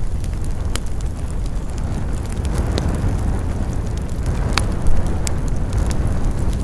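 Wood campfire burning: a steady low rush of flame with irregular sharp crackles and pops from the burning wood, one louder pop about two-thirds of the way in.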